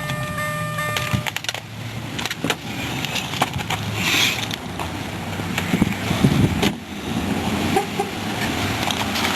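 A Chevrolet's engine idles and is switched off about a second in, with a steady electronic tone sounding over it as it stops. Scattered clicks and knocks follow.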